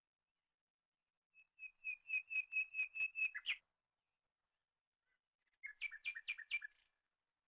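A bird calling in two quick runs of repeated whistled notes, about five a second. The first run holds about ten notes, and a shorter run of about six follows a couple of seconds later.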